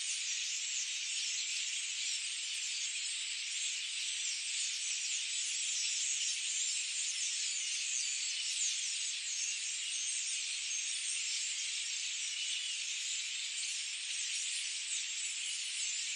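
A steady, dense forest chorus of many overlapping high-pitched chirps and trills, with no low sounds.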